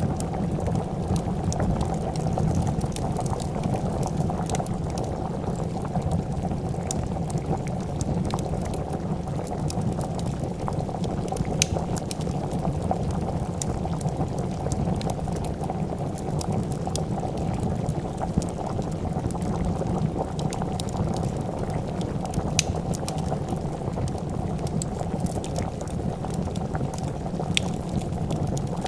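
A pot of soup boiling with a steady, dense bubbling, and the scattered sharp pops and crackles of a wood fire over it.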